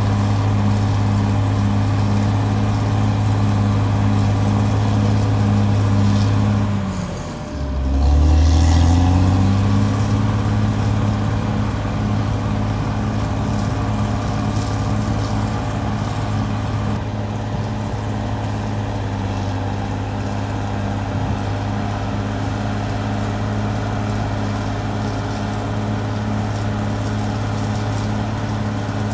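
Caterpillar D6R XL bulldozer's diesel engine running steadily. About seven seconds in, the engine note drops sharply and the sound dips, then climbs back to its steady speed within a couple of seconds.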